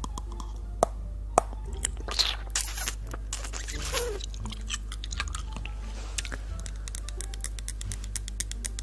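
Fingernails tapping and clicking on zirconium crystal dental crowns: a long series of sharp clicks, some in quick runs, with a few short scraping sounds.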